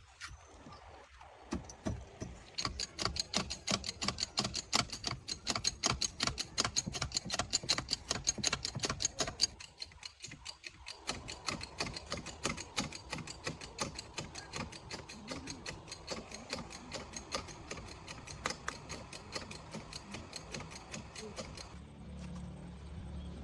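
Ratchet wrench being worked, with rapid even clicking at about five clicks a second that stops shortly before the end. A low rumble rises near the end.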